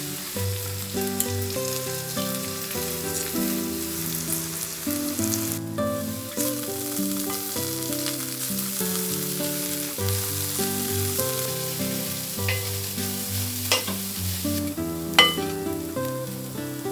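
Food sizzling as it fries in a pan, with a few sharp utensil clinks in the latter half, under soft instrumental background music.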